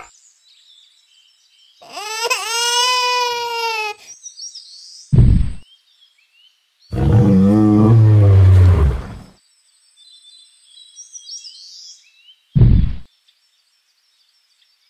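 Dinosaur sound effects: a high, wavering screech about two seconds in and a long, deep roar about seven seconds in, with a heavy thud after each, and faint bird chirps in between.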